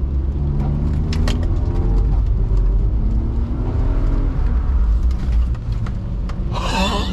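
BMW E46 320i's 2.2-litre M54B22 straight-six revving up under acceleration, its pitch rising twice, over a heavy low rumble heard from inside the cabin.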